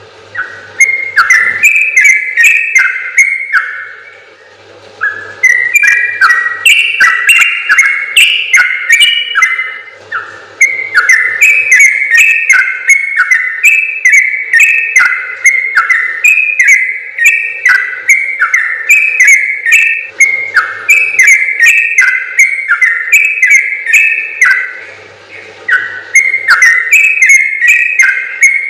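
Yellow-vented bulbul (trucukan) singing long, fast runs of bubbly, chattering notes, phrase after phrase, with brief pauses about four seconds in and again near the end.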